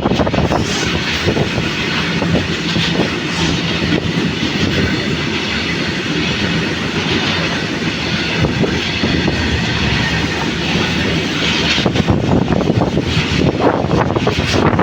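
Freight train wagons rolling past close by, their wheels clattering steadily over the rail joints.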